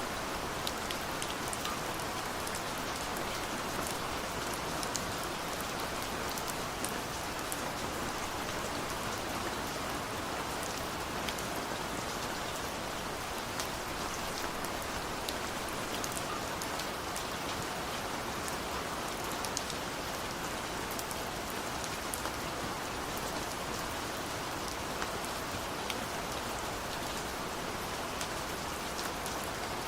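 Steady rain falling: an even, constant hiss with many scattered sharper ticks of individual drops striking nearby.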